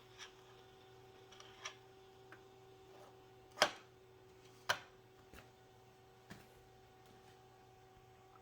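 Scattered light clicks and knocks, two louder ones a second apart near the middle, over a faint steady hum.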